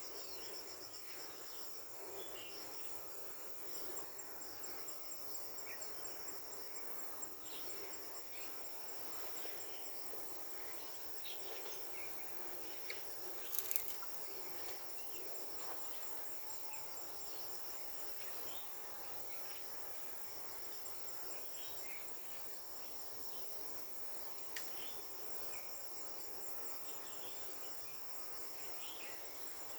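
Insects chirring steadily in a continuous high, finely pulsing chorus, with scattered short chirps beneath. A single sharp click stands out about fourteen seconds in.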